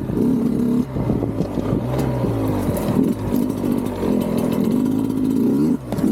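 Sherco 125 SE Factory two-stroke enduro engine through a Fresco exhaust, revving up and down as the throttle is worked, with the revs dropping briefly about a second in and again near the end.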